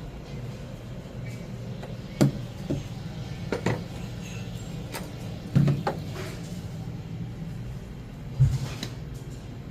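Sharp knocks and clinks, about six, from the hardware of a commercial refrigerator door being handled during a repair of the fallen-off door, over a steady low hum.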